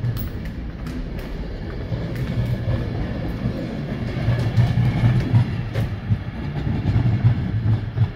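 Train running close by: a steady low rumble that swells about halfway through and drops away suddenly at the end.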